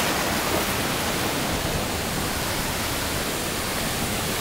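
Waterfall rushing: a steady, even noise of heavily falling water.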